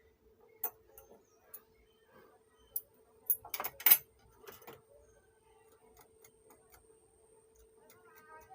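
Sharp clicks and taps of handling on a workbench, loudest in a quick cluster about three and a half to four seconds in, over a faint steady hum.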